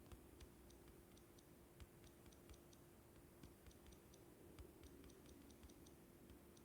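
Near silence with faint, irregular small clicks, a few each second, over a faint steady low hum.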